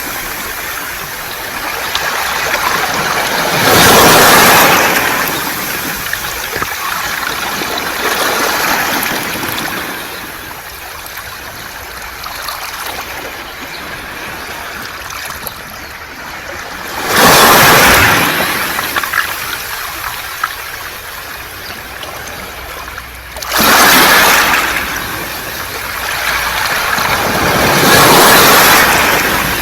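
Sea waves washing onto a beach of rounded pebbles. About four irregularly spaced surges swell and fade, with a constant hissing, trickling wash of water through the stones between them.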